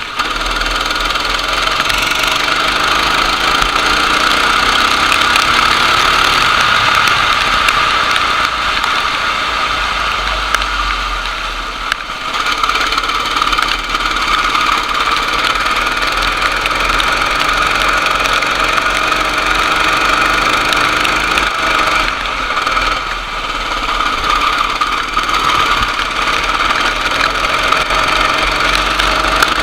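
Go-kart engine running continuously under racing load, its level dipping briefly twice, about twelve and twenty-two seconds in.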